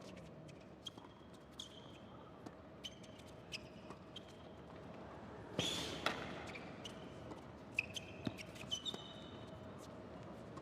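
Tennis rally on a court: a tennis ball being struck and bouncing in short sharp knocks, with brief sneaker squeaks as the players change direction. The loudest strikes come just before the middle.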